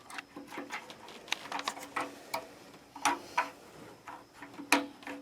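Irregular small clicks and taps of a replacement water heater thermostat being worked into its metal retaining clips and past the wiring, the sharpest knocks about three seconds in and near the end.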